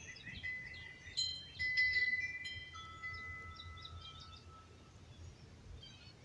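Wind chimes ringing: several clear metal tones struck about a second in and fading over a few seconds, with birds chirping over a low rumble of wind.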